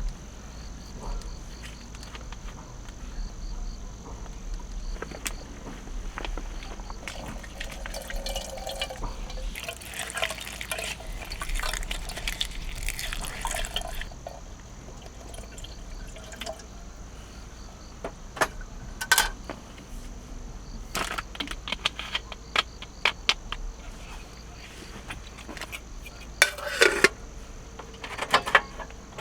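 Water being poured or splashed, heaviest for a few seconds near the middle, among scattered sharp clicks and knocks of things being handled.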